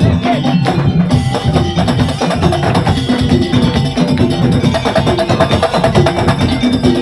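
Madurese tongtong (daul) ensemble playing: wooden slit drums, drums and jingling percussion in a fast, steady rhythm, with a repeating pitched melodic figure over it.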